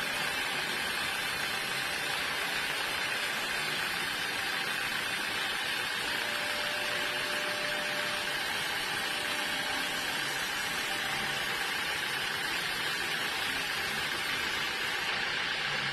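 Sawmill saw machinery running steadily, a constant even noise with no breaks or impacts.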